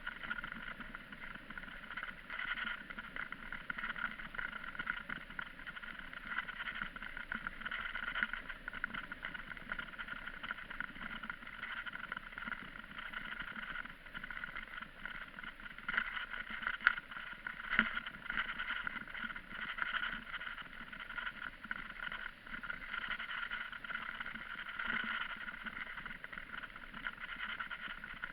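Steady rushing noise of a bicycle on the move, tyres on the road and air passing, with a couple of sharp knocks about two-thirds of the way through.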